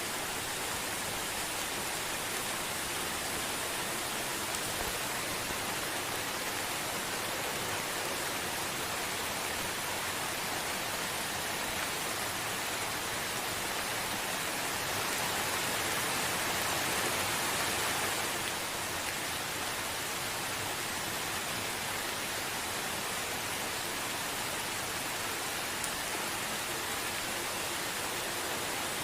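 Gentle, steady rain falling, an even continuous hiss with no thunder, swelling slightly for a few seconds a little past halfway through.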